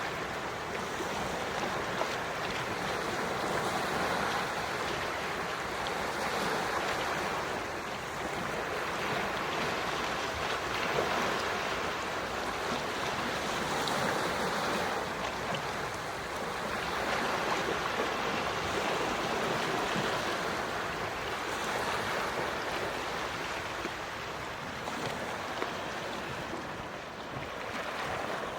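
Calm sea waves washing gently onto the shore, swelling and easing every few seconds.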